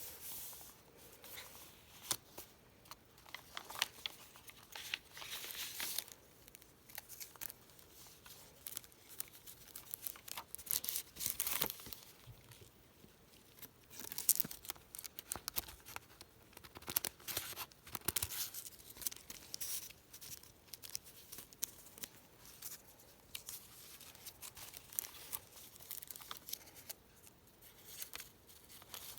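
Paper pages of a handmade journal being turned and handled: irregular rustling and crinkling of paper, with small taps and clicks.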